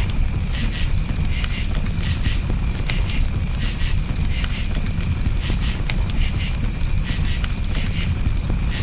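Crickets chirping in repeated pulsed trills over a campfire's steady low rumble, with scattered sharp crackles from the fire.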